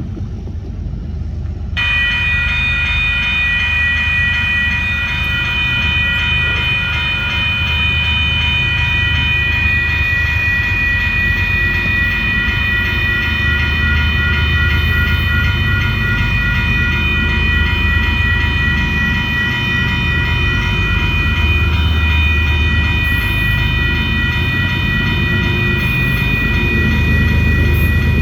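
A train rolling by with a low rumble. About two seconds in, a steady high-pitched whine of several even tones starts and holds, while the rumble slowly grows louder.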